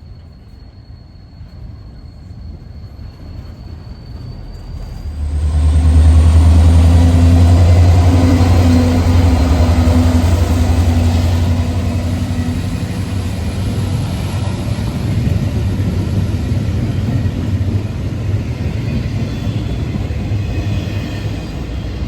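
Freight train passing: the diesel locomotive grows louder on approach and goes by close about five seconds in with a loud, low engine drone, followed by the steady rumble of the cars rolling past.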